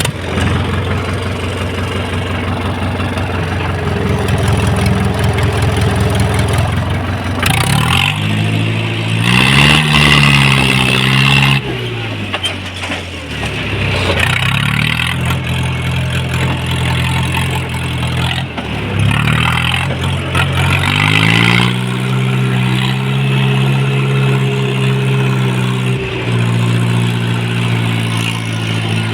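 Tractor engine working hard to get the tractor out of the field where it is stuck, its revs rising and falling several times.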